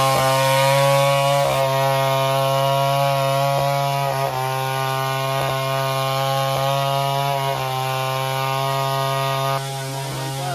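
Two-stroke chainsaw running at speed while cutting wood, its pitch dipping briefly a few times; it gets a little quieter about a second before the end.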